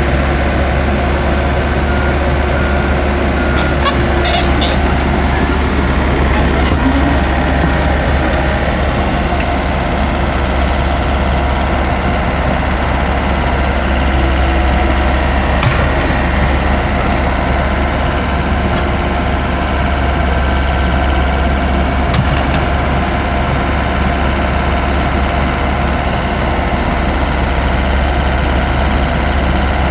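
Heavy diesel construction machinery running steadily with a constant low rumble while concrete is poured into a bored pile hole.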